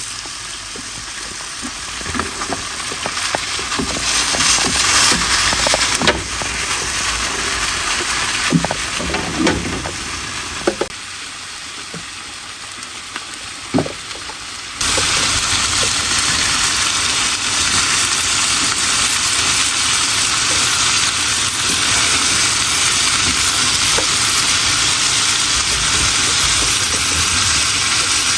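Food sizzling in a hot pan, with occasional knocks of a utensil against the pan. About halfway through, the sizzle jumps suddenly louder and then runs on steadily.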